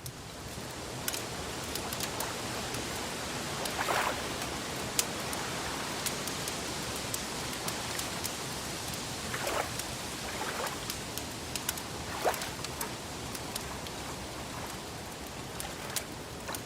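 Crackling wood fire over a steady rushing wash of water: sharp little pops scattered throughout, with a few soft splashes.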